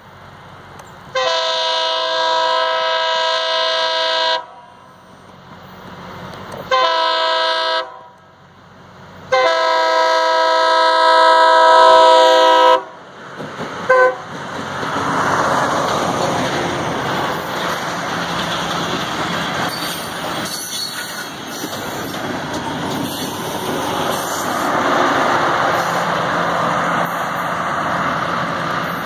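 Rail grinder train's horn sounding for a grade crossing: a long blast, a short one and another long one, then a brief toot. Then the train passes close by with a steady rumble from its diesel engines and wheels on the rails.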